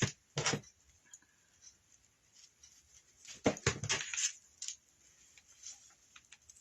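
Handling noises from craft materials on a work table: two sharp knocks near the start, then a quick cluster of knocks and scrapes about three and a half seconds in, with faint light ticks afterwards.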